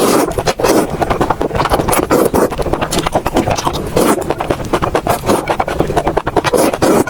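Close-miked eating sounds: a dense run of wet chewing clicks and crackles.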